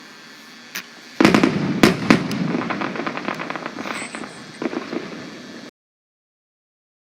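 Fireworks going off: a single bang just under a second in, then a dense barrage of bangs and crackling from about a second in. About five and a half seconds in, the sound cuts off abruptly to dead silence, a gap in the audio track.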